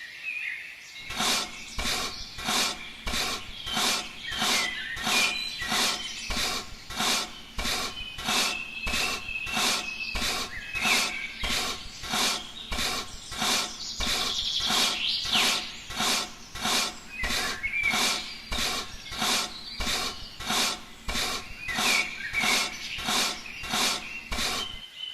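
Steady, rhythmic scraping strokes, about two a second, with faint bird chirps behind.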